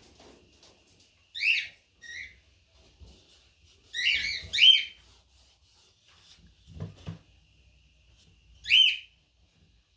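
A bird chirping in short, high calls: one about a second and a half in, a quick cluster around four to five seconds, and one near the end. Two soft knocks come in between.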